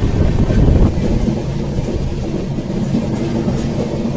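Passenger train running, heard from an open coach door: a steady rumble of wheels on the track, which drops a little in level about a second in.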